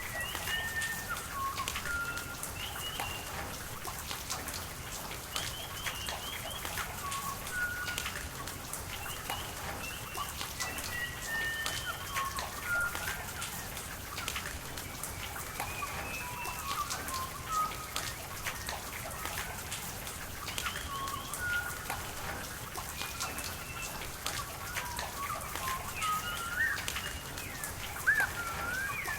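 Rain falling, with a steady patter of individual drops ticking, while small birds chirp throughout in short, quick whistled notes.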